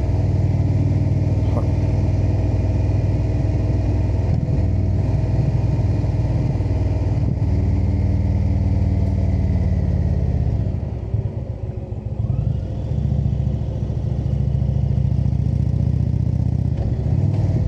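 Motorcycle V-twin engine running steadily under way; about eleven seconds in it drops off as the bike slows, then picks up again.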